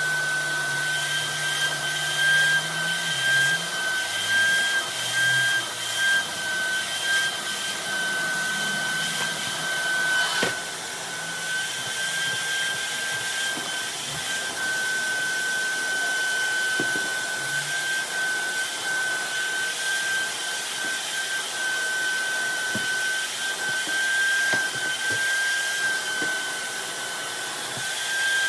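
Vacuum cleaner motor running steadily with a high whine, with a few light knocks against it.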